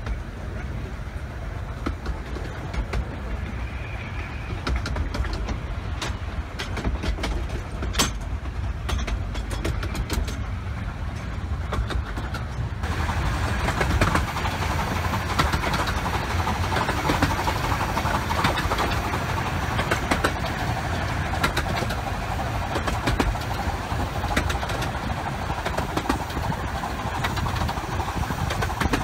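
A 15-inch-gauge miniature steam train running, heard from a carriage window: a steady rumble of wheels on the rails with scattered clicks over the first half. About halfway through the noise turns suddenly brighter and louder as the train runs close alongside a wall.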